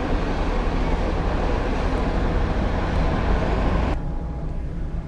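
Steady vehicle noise with a loud rush of wind over a low hum; about four seconds in the rush drops away sharply, leaving a quieter low hum.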